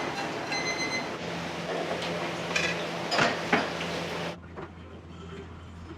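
Kitchen clatter of cookware and metal utensils, with a few sharp knocks in the middle. About four seconds in it drops abruptly to a quieter steady hum.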